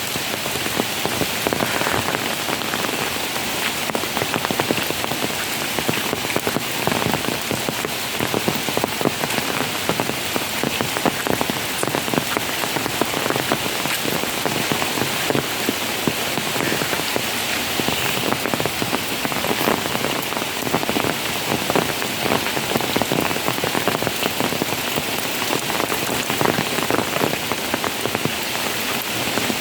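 Steady rain, a dense, even patter of countless drops striking a surface, with no letup.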